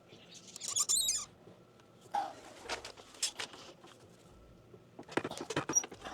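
Handling noise from plastic PEX tubing and fittings being worked into place: a brief scratchy rustle in the first second, then scattered light clicks and knocks.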